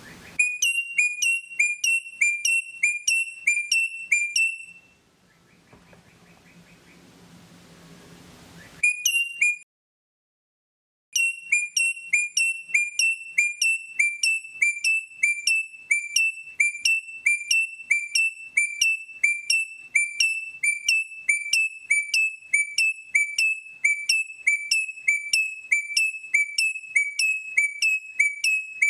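A high whistle-like chirp repeated in an exact loop about two and a half times a second. Each chirp is a short downward glide onto a steady tone. The loop breaks off for a few seconds about a third of the way in, with a faint low hum in the gap, then cuts to dead silence before it starts again.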